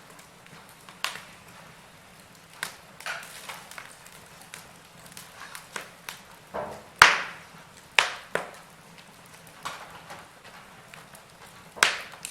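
Wood fire crackling, with irregular sharp pops over a faint steady hiss. The loudest pop comes about seven seconds in.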